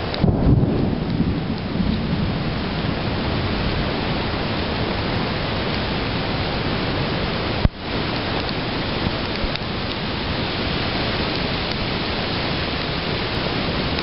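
Heavy rain pouring steadily during a thunderstorm, with a low rumble of thunder in the first couple of seconds. A single sharp click sounds a little past the middle.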